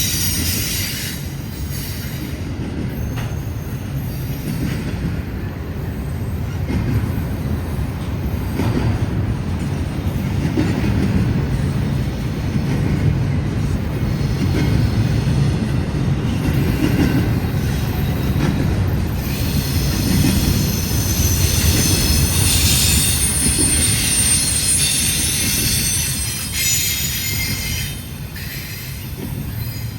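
Freight train rolling past, a steady rumble of wheels on rail with high-pitched wheel squeal that grows stronger in the second half and eases off near the end.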